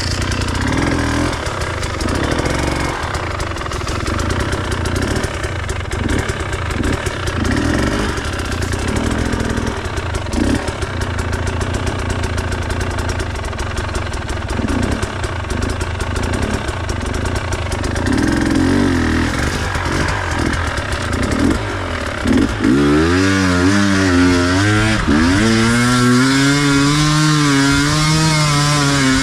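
Enduro dirt bike engine running at uneven throttle, then from about 22 seconds in revved up and down several times and held at high revs.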